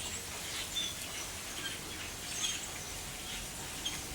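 A flock of grackles calling: scattered short, high, squeaky chirps and clicks, the 'weird crackling noise' of the flock, over a steady low outdoor background.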